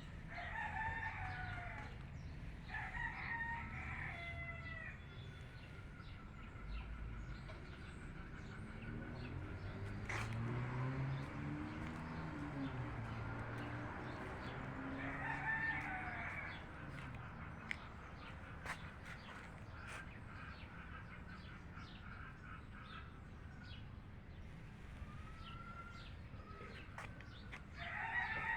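Rooster crowing four times, twice close together at the start, once about halfway through and once at the very end, with some hen clucking and small birds around it. A low hum rises and falls in the middle.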